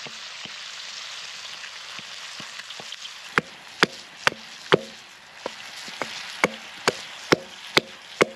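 Grayling frying in a pan over a campfire, with a steady sizzle. From a few seconds in come sharp knocks about twice a second.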